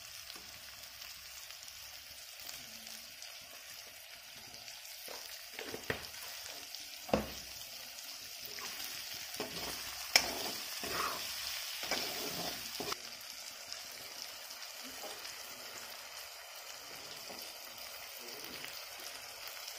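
Eel pieces and sliced onion sizzling in oil in a wok, with a steady hiss. A steel spoon stirs them, scraping and knocking against the pan from about five to thirteen seconds in; the sharpest knocks come about seven and ten seconds in.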